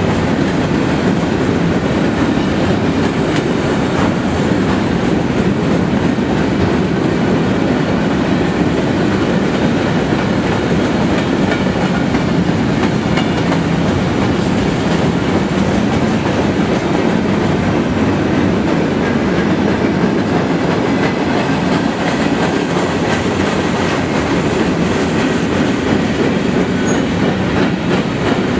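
Freight train of flatcars rolling steadily past close by: a loud, continuous rumble and clatter of steel wheels on the rails that holds steady throughout.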